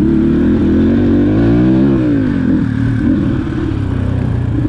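Dirt bike engine running under throttle on a trail: the revs climb for about two seconds, then drop back and hold steady.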